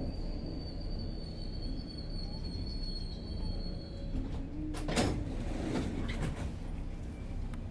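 Subway train rumbling steadily, with a thin high whine that fades out about halfway. A sharp metallic clunk comes about two-thirds of the way in, followed by a few lighter clanks.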